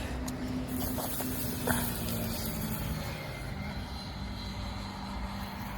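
Steady low mechanical hum with a single light knock about one and a half seconds in.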